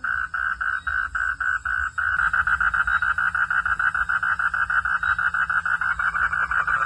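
Night chorus of frogs calling in a rapid, rhythmic pulsing trill. The pulses come about four or five a second, then quicken and thicken about two seconds in as more callers join.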